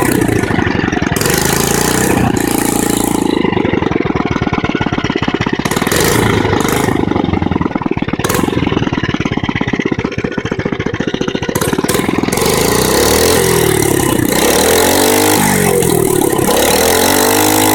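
Mini bike's small engine running and being revved, its pitch rising and falling, steadier through the middle and revved up and down several times near the end.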